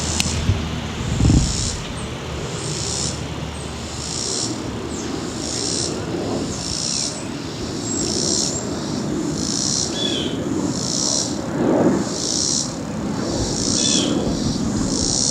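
Insect calling in regular high-pitched pulses, a little more than one a second, over a low steady rumble.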